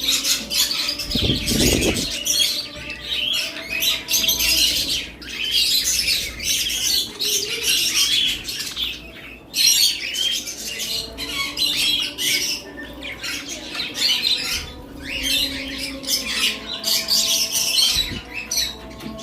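Budgerigar chattering: a dense run of high, quick chirps and squawks, broken by a few brief pauses. A low thump comes about two seconds in and another near the end.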